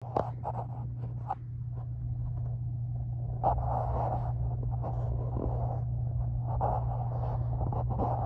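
Low steady rumble of a freight train, muffled as heard from inside a house, growing louder over the first few seconds. There are a few sharp clicks in the first second and a half.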